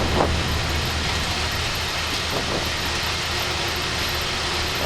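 Flight-deck noise of a Boeing 737-800 on its takeoff roll: the CFM56-7B engines at takeoff thrust, with a steady low rumble from the runway. A steady tone joins about three seconds in.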